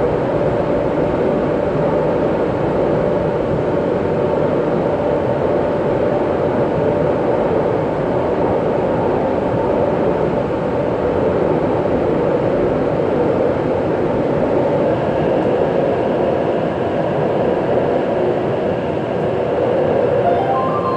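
Inside a Taipei Metro C381 train running between stations through a tunnel: the steady rumble of wheels on rail and the moving car.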